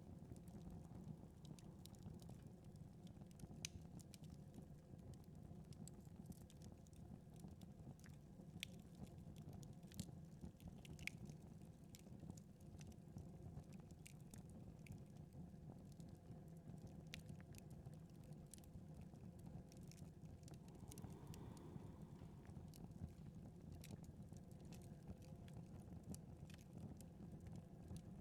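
Faint crackling of a wood fire in a fireplace: scattered sharp pops and ticks over a low, steady rumble.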